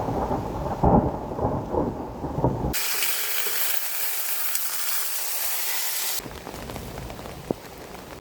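Thunder rumbling over rain, with loud surges in the first few seconds. It gives way abruptly to a steady bright hiss of heavy rain, then about six seconds in to softer, duller rain.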